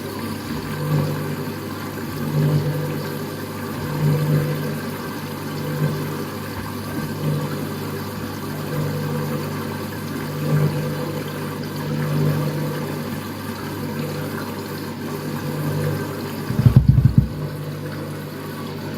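Front-loading washing machine's motor turning the drum during a wash, with a steady hum that swells every second and a half or so as the drum tumbles. The drum is churning through heavy suds from a double dose of powder. A brief, louder low rumble comes near the end.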